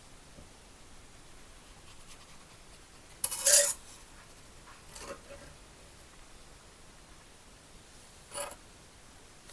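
Three short scraping strokes on metal, the first much the loudest, each with a faint ring: a hand tool rasping on the copper box during restoration work.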